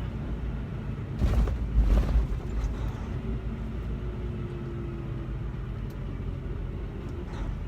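Inside the cab of a semi-truck tractor running without a trailer: steady engine and road rumble, with a louder burst of jolts and rattling about a second in.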